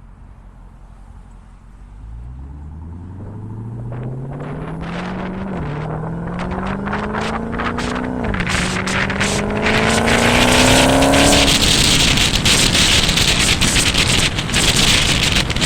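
Dodge Hellcat's supercharged 6.2-litre V8 running through a Borla ATAK cat-back exhaust, accelerating hard and revving up through the gears, its pitch dropping at two upshifts. Near the end the engine is lost under a loud rush of wind noise.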